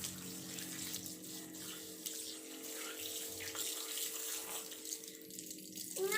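Water running steadily from a tap to rinse the soap off a cat in a bath. Right at the very end the cat starts a loud meow.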